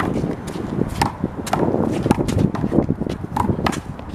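A one-wall handball rally: a rubber handball is slapped by hands and smacks off the wall and the court, with quick irregular knocks several times a second, mixed with players' footsteps.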